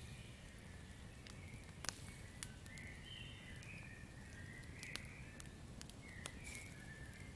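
Campfire crackling, with sharp pops, the loudest about two and five seconds in, over a low steady rumble. Short chirping calls of night forest creatures come and go throughout.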